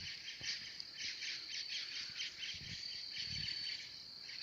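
Insects chirping in a steady high trill, with rapid pulsed chirps over it and a few faint low thumps.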